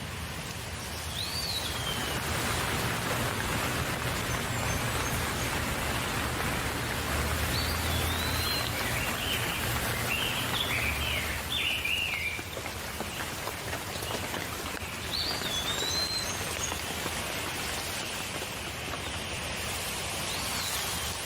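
Steady rain falling, with a bird calling over it: a short sliding call about a second in, again near 5 s, 15 s and 20 s, and a quick run of chirps around 9 to 11 s.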